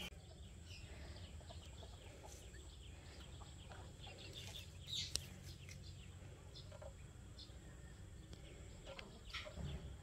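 Quiet outdoor ambience with a steady low rumble and a few faint, short bird chirps, the most distinct one about five seconds in.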